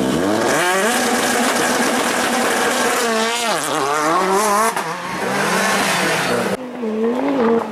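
Rally car engine revving hard, its pitch climbing and dropping again and again through throttle lifts and gear changes, wavering quickly in the middle of the run.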